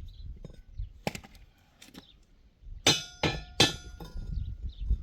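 Several sharp clinks of hard objects striking: two lighter ones, then three loud ringing ones in quick succession.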